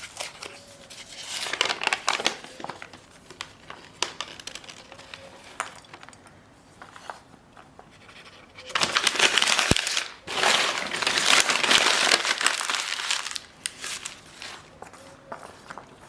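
Soft gym chalk and cornstarch paste being crumbled and crushed by hand, making soft crackling and crinkling sounds. Scattered small crackles lead up to two longer, louder stretches of crushing in the second half.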